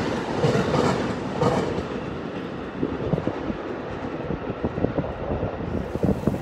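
Electric passenger train running over the rail yard tracks as it moves away, growing quieter over the first couple of seconds, with sharp clacks of its wheels over rail joints and points.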